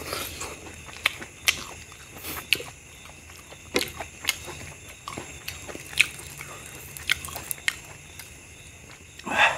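Close-up eating sounds of a man eating mutton curry and rice by hand: wet chewing and mouth smacks with sharp clicks spread through, and a louder noisy burst about nine seconds in.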